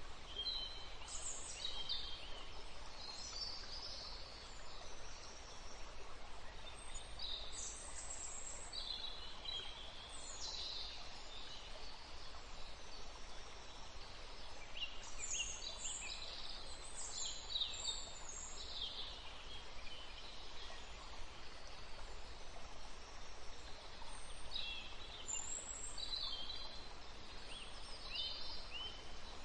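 Small birds chirping on and off over a steady background hiss, with short calls that slide up and down in pitch.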